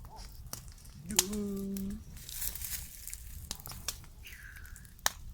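Crackling and crinkling of a trash bonfire, with scattered sharp pops. A short steady tone sounds for under a second, about a second in.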